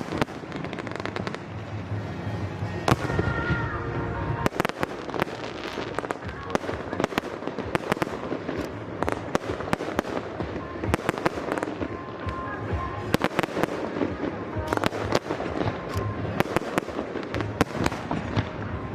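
Fireworks display going off in a continuous, irregular barrage of sharp bangs and crackles, several a second.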